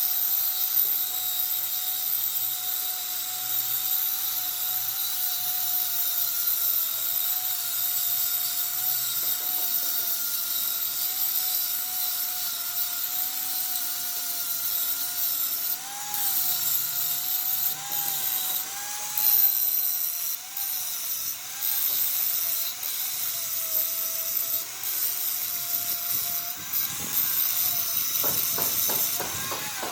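A high-speed power tool running with a steady high whine that wavers slightly in pitch, over a hiss. Near the end it gives way to a run of quick clicks.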